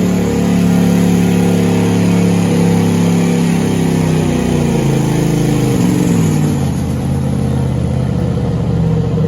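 A diesel pickup truck with a 2.6-inch smoothbore turbo, its engine running hard at high revs under load while pulling the sled. About four to six seconds in, the engine note drops as the revs fall away; the announcer thinks something may have gone wrong or broken on the run.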